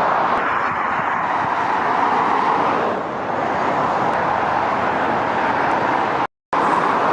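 Steady rushing road and tyre noise of motorway traffic, with no breaks except a momentary total dropout about six seconds in.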